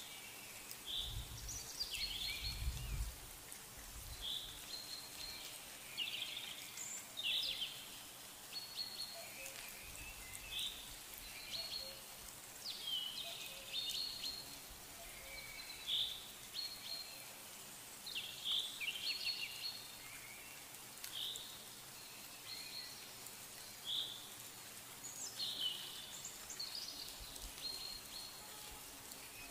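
Small birds chirping, short high calls every second or two, some sliding in pitch, over a faint steady hiss. A brief low rumble about a second in.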